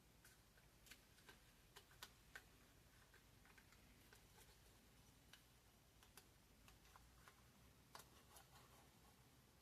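Near silence with faint, irregular clicks and taps from small model parts being handled during gluing.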